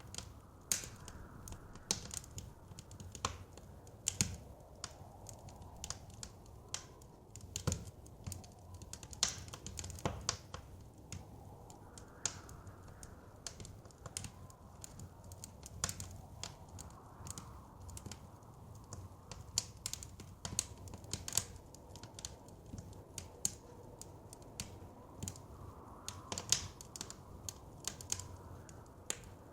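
Wood fire crackling, with irregular sharp pops several times a second, over a steady low rumble of wind that swells and eases now and then.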